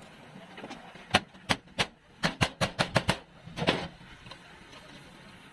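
A run of about ten sharp knocks over some two seconds, unevenly spaced, followed by a longer, scraping one.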